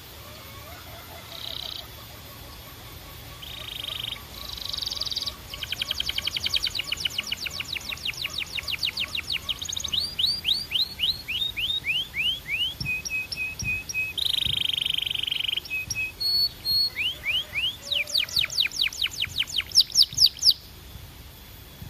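Belgian canary singing a long, varied song of quick trills made of rapid falling notes, buzzy rolls and a short row of steady clear notes, changing phrase every second or two.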